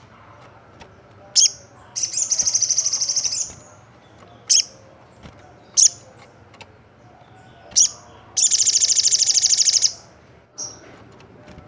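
Olive-backed sunbird singing: short, sharp high chirps every second or two, broken twice by a fast, high trill lasting about a second and a half.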